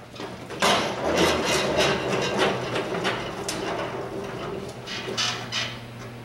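Repeated sharp knocks and clatter over a steady low hum, the loudest knock coming less than a second in.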